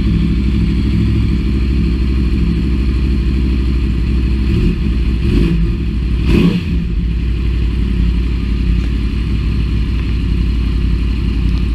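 2010 Yamaha YZF-R1's crossplane-crank inline-four idling through a Yoshimura slip-on silencer, with an uneven, lumpy beat. The throttle is blipped twice, about five seconds in and again a second or so later.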